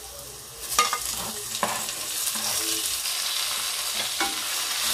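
Chopped taro stems going into hot coconut oil in a clay pot: a few sharp knocks of a steel spoon, then a frying sizzle that starts about a second and a half in and builds, with the ladle stirring and scraping through it.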